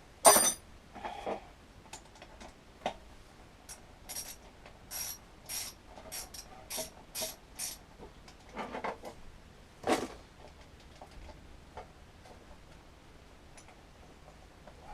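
Hand ratchet clicking in short strokes, about two a second, as a bolt is wound into the lawnmower; a bolt that does not want to thread in properly. A sharp clack just after the start and louder clacks around nine and ten seconds in.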